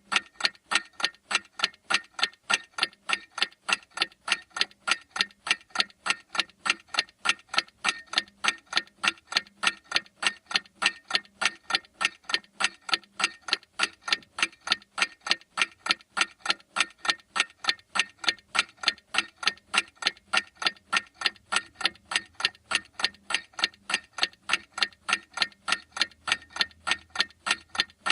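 Clock ticking steadily, an even run of sharp ticks at about three a second.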